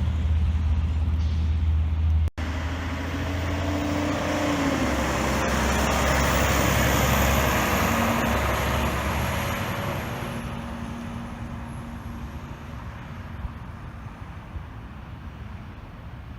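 Heavy truck engine rumbling close until a sudden cut about two seconds in. Then a truck passes, growing loudest a few seconds later and fading away into road noise.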